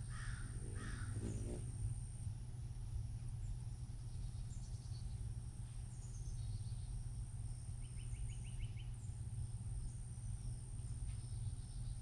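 Faint scattered wild bird calls and chirps over a steady low background hum, with a quick run of about six short notes about eight seconds in.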